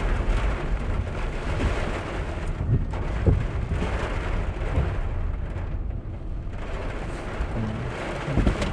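Typhoon-force wind gusting hard, a continuous roar that swells and eases, with deep rumbling buffets of wind on the microphone.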